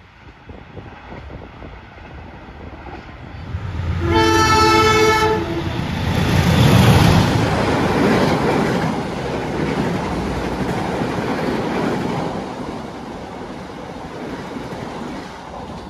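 Passenger train sounding its horn once, for just over a second about four seconds in, then running through the station at speed: the wheels on the rails swell to their loudest around seven seconds in and die away slowly toward the end.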